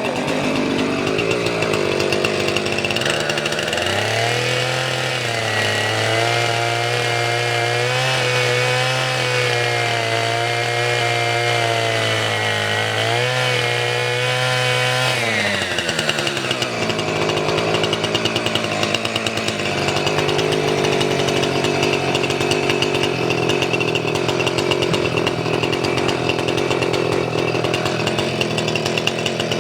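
Two-stroke chainsaw running steadily, held at a high even pitch from about four seconds in for roughly ten seconds, then dropping to a lower, rougher note for the rest.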